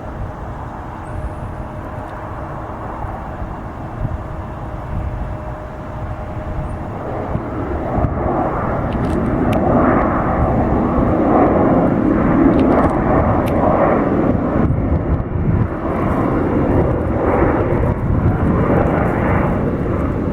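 Jet airliner engines, the noise building about eight seconds in to a loud, steady roar that holds to the end.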